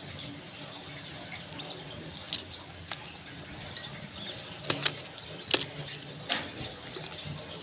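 Budgerigars in their cage: about six short, sharp chirps or clicks, scattered over a steady background hiss.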